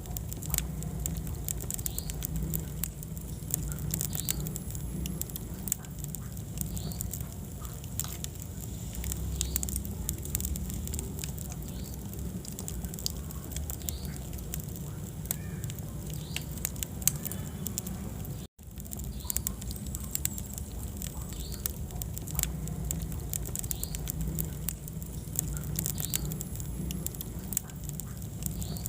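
Wood fire burning in a fireplace: irregular crackles and pops over a steady low rumble of flame. The sound cuts out completely for an instant about two-thirds of the way through.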